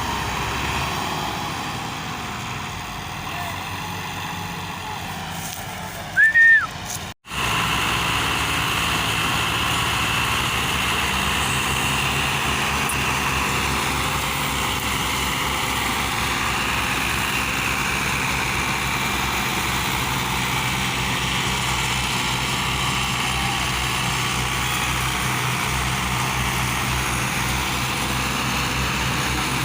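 Massey Ferguson 385 tractor's four-cylinder diesel engine running steadily under load during a power test. About six seconds in, a short, loud tone rises and falls, followed by a split-second break in the sound, and then the engine runs on steadily.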